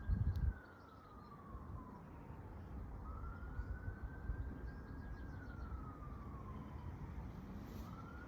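A distant emergency-vehicle siren in a slow wail, each cycle rising quickly, holding, then sliding down over about four seconds, repeated twice and starting again near the end. A low rumble runs underneath, loudest in the first half second.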